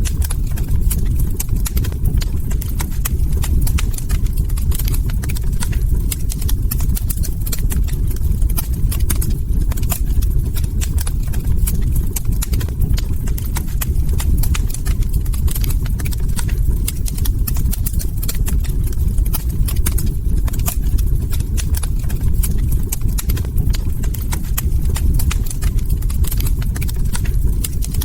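Log fire crackling: dense, irregular small pops and snaps over a steady low rumble.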